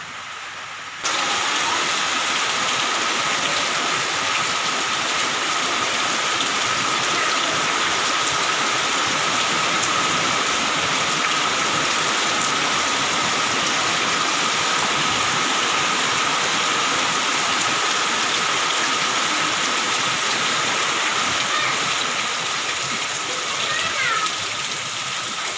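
Heavy rain pouring down steadily, starting abruptly about a second in, with a thin steady high tone under it.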